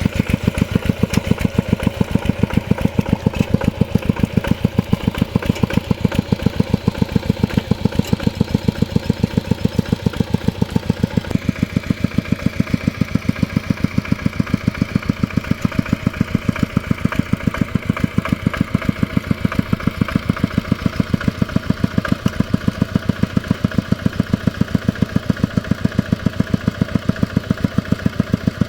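Mini tractor's engine running with a fast, even beat while plowing a rice field; the tone changes a little about a third of the way in.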